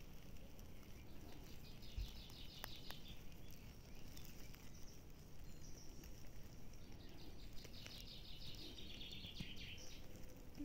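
A songbird singing a rapid, high trill twice, each phrase about two and a half seconds long and sliding slightly downward, over faint outdoor background noise with a few soft clicks.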